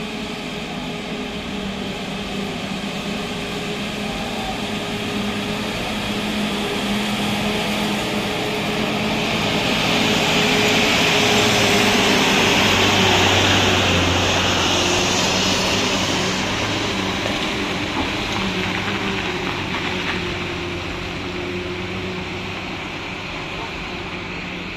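Motor vehicle engine running steadily under tyre and road noise, which swells to its loudest about halfway through and fades again.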